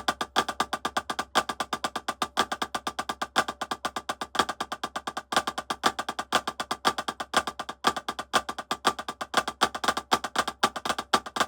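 Drumsticks playing a fast, even rudiment pattern, with accented strokes recurring about once a second: a demonstration of an inverted sticking pattern.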